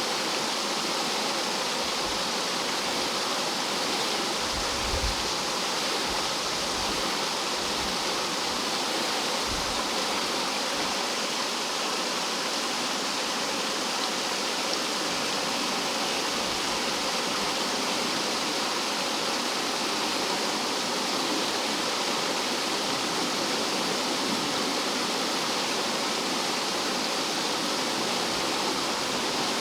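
Rough mountain-stream water tumbling and falling over rocks like a small waterfall, a steady, dense rush with a few brief low thumps a few seconds in.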